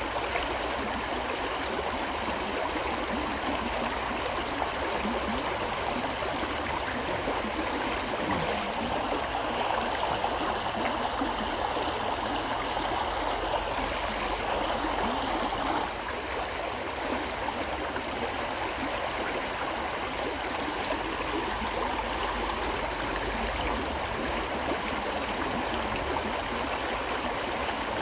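River flowing steadily: a continuous rush and gurgle of water that dips slightly in level about halfway through.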